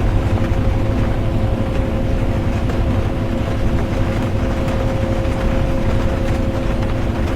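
Bus interior while driving: a steady low engine and road rumble with a constant drivetrain hum, mixed with the even hiss and faint patter of rain.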